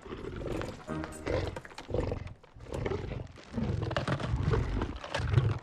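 Terror dog creature sound effect: a run of deep, rough growls and snarling roars in uneven bursts, over film music.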